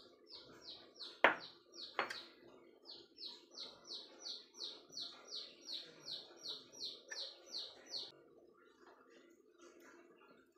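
A bird calling a fast series of short, high, falling chirps, about three a second, with a short break about two seconds in, stopping about two seconds before the end. Two sharp clicks, the loudest sounds, come about one and two seconds in.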